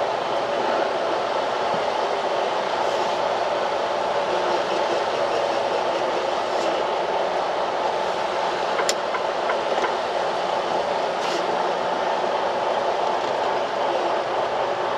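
Steady engine and road noise inside a semi-truck's cab as it moves slowly, with a few faint clicks and one sharp tick about nine seconds in.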